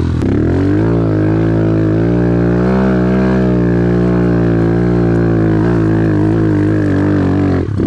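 An off-road vehicle's engine running under steady throttle, its pitch dipping and rising slightly. The throttle closes and the engine note drops just before the end.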